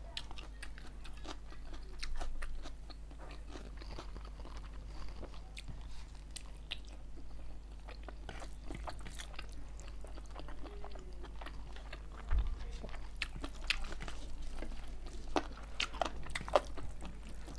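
Close-miked eating: biting and chewing cooked chicken with crunches, mouth clicks and smacks, and fingers working through rice on the plate. One low thump comes a little past the middle.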